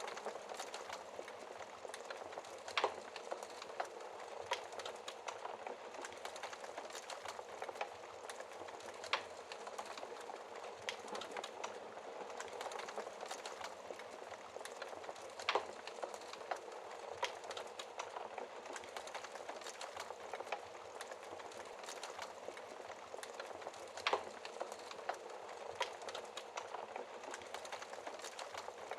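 Wood fire in a fireplace crackling steadily: a soft hiss full of small pops, with a handful of louder snaps several seconds apart.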